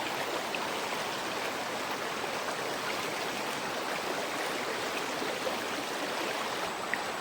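Rocky jungle river rushing steadily.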